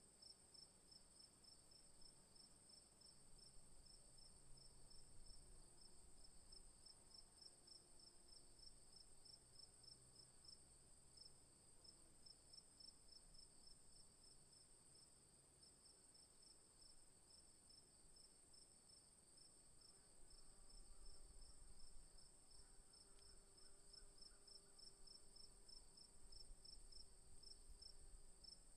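Crickets calling steadily: a high continuous trill over a slightly lower one that pulses rapidly and evenly, about five times a second, with a faint low rumble beneath.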